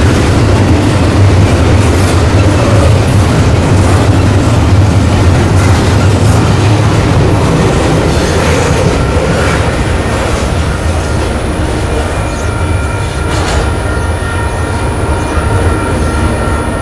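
Freight train rolling past on the rails, a loud steady rumble and clatter of wheels. Thin high squeals come in from about two-thirds of the way through.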